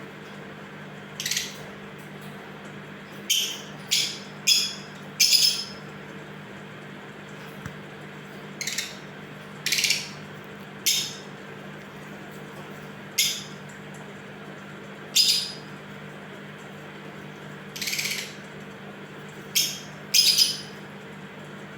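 African lovebirds giving a dozen or so short, shrill chirps at irregular intervals, each under half a second, over a faint steady hum.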